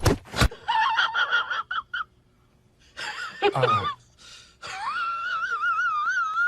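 A few sharp knocks, then a series of high-pitched wavering cries, with a falling cry about halfway through and a long quavering cry near the end.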